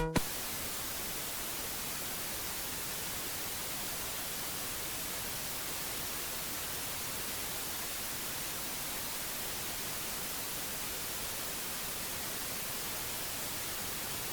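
Steady hiss of static noise at an unchanging level, with no tones or events in it.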